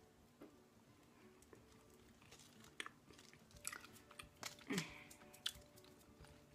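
Faint chewing and wet mouth clicks of someone eating a torn-off piece of chewy sour candy roll (Rip Rolls), with a few sharper smacks about halfway through.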